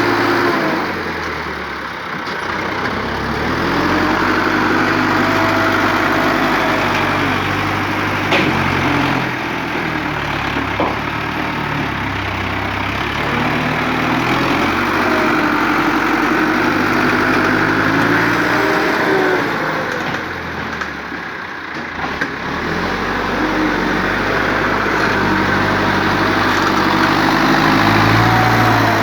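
A vehicle engine running and working under load, its speed rising and falling throughout, easing off briefly about two seconds in and again about twenty-one seconds in.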